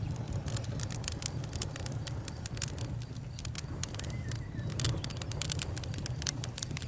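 Campfire burning, with dense, irregular pops and snaps of burning wood over a steady low rumble.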